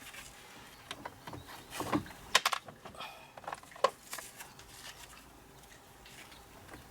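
Scattered sharp clicks and knocks, several in the first four seconds, from a small socket and driver being handled and fitted while fastening parts back in place.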